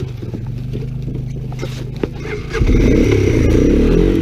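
Three-wheeler ATC engine running at low revs, then revving up sharply about two and a half seconds in as the rider accelerates.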